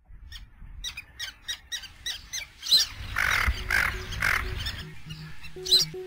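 Bird calls: a fast run of short sharp calls, then three harsh, raspy calls about half a second apart. The bass notes of house music come in near the end.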